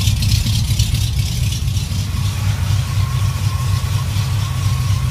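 A 1984 GMC pickup's small-block V8 idling steadily through Cherry Bomb mufflers, with a deep, even exhaust rumble.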